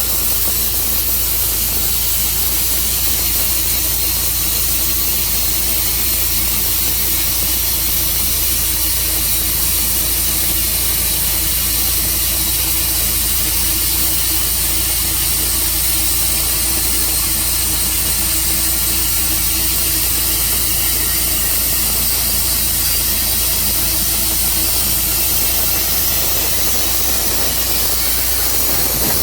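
Steady engine noise under a loud, even hiss, unchanging throughout.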